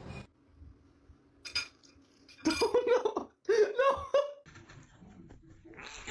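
A person laughing in a few short bursts, with a couple of sharp clinks like dishes or cutlery just before and among them.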